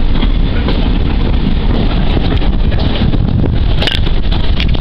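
Wind buffeting the microphone at the window of a moving steam-hauled train, over the steady low rumble of the train running on the rails, with a few short clicks near the end.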